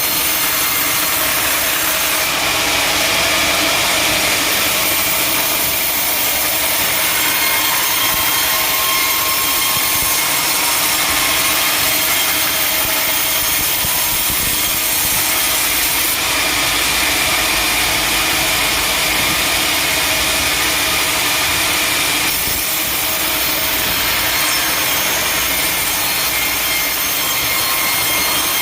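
A sawmill saw cutting steadily through a teak log, a continuous harsh hiss of the blade in the wood. It grows brighter for a couple of seconds near the start and again for several seconds past the middle.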